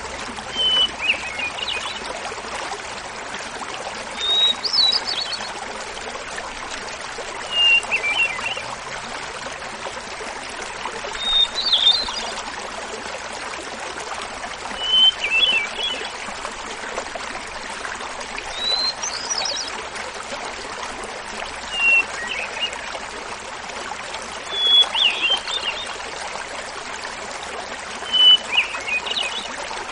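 Hermit thrush singing over the steady babbling of a small waterfall. About nine flute-like phrases come one every three to four seconds; each is a held opening note followed by a quick fluttering run, and the phrases alternate between higher and lower pitch.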